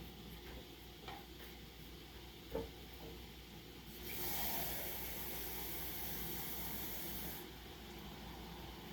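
Food sizzling in a frying pan: a hissing burst of about three seconds that starts and stops abruptly, after a few light kitchen clicks.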